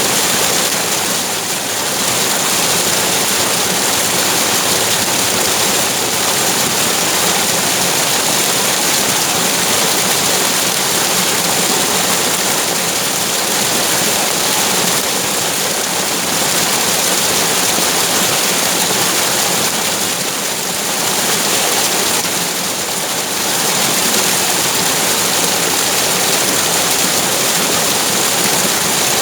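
Running water rushing steadily, a dense, even hiss with a couple of brief slight dips in level.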